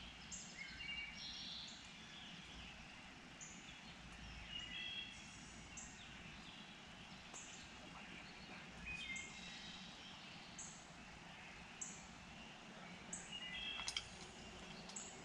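Faint songbirds chirping and singing, one bird repeating a short, high note about once every second or so. A sharp click near the end.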